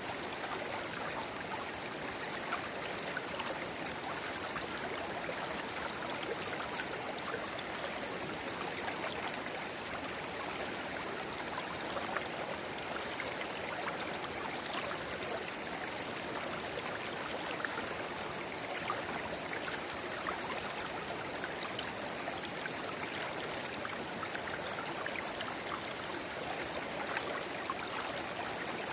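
A river babbling steadily where a narrow spring-fed rivulet runs into the main flow: an even rushing of water with many small splashes and gurgles on top.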